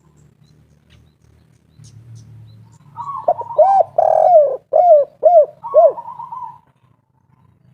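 Spotted dove (tekukur) cooing its 'kuk 3' song: one phrase of about six arched, pitched coos lasting about three and a half seconds, starting about three seconds in.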